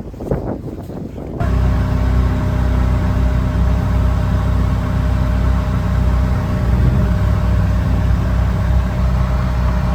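A vehicle engine running steadily close by, starting abruptly about a second and a half in as a loud, low, even drone.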